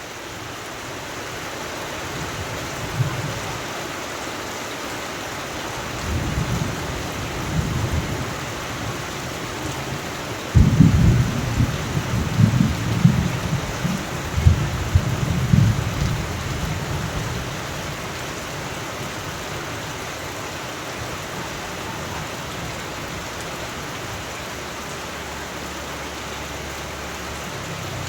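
Steady rain with thunder: a low rumble builds, then about ten seconds in a loud clap breaks and rolls on in waves for several seconds before fading back to the rain.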